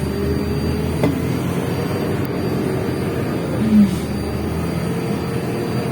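Interior noise of a MAZ-105 articulated diesel city bus driving between stops: a steady engine and road rumble. There is a faint click about a second in, and a brief falling squeal shortly before the end.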